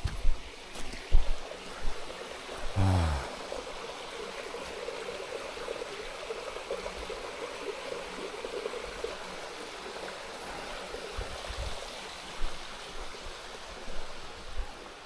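A stream of running water, a steady rushing. A few low knocks come in the first two seconds, and a short low sound falls in pitch about three seconds in.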